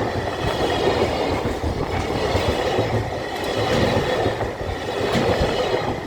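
Train running past on the rails: a steady, loud rumble of wheels on track with a few irregular clicks as the wheels cross rail joints.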